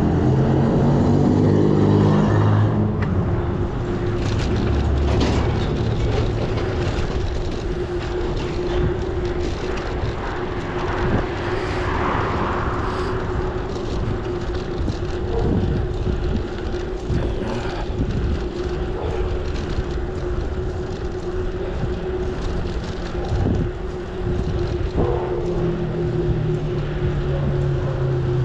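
Riding noise: wind and road rush with a steady hum, joined by a vehicle's engine tones for the first couple of seconds and again near the end.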